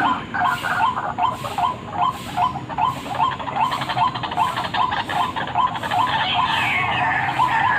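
White-breasted waterhen (ruak-ruak) calling: a steady run of short repeated notes, about three a second, with a higher warbling call joining near the end. This is the bird's call used as a lure.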